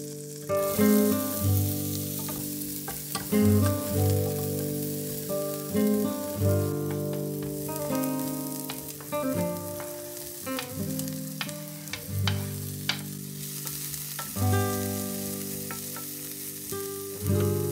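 Diced onion and root vegetables sizzling in butter in a pot and being stirred with a wooden spatula. Background music of plucked, guitar-like notes plays over the frying.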